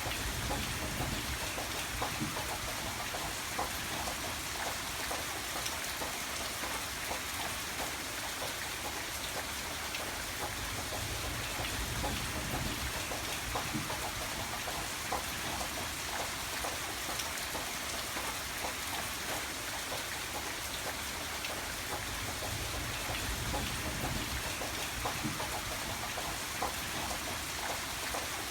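Steady rain falling, with many individual drops striking a surface. A low rumble swells and fades a few times beneath it.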